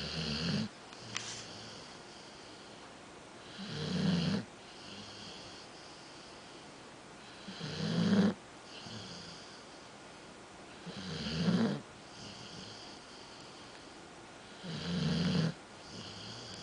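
Dog snoring in its sleep: a loud snore about every four seconds, five in all, each building for about a second and cutting off abruptly, with a softer breath between.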